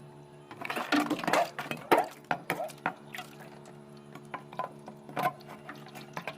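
Thick frost and ice being broken loose inside a fridge freezer: a quick run of sharp cracks and knocks for the first few seconds, then scattered clicks, over a steady low hum.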